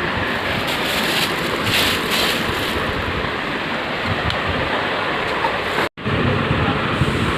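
Steady sizzling of chicken frying in hot oil in a cooking pot, briefly cut off about six seconds in.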